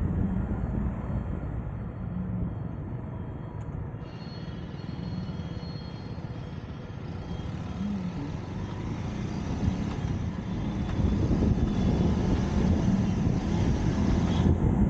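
Road traffic noise heard from a moving vehicle: a steady rumble of engines and tyres. It eases off in the first third and builds up again towards the end.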